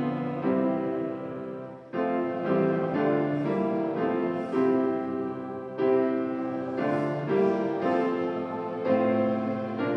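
Slow hymn music played on piano, sustained chords changing about once a second.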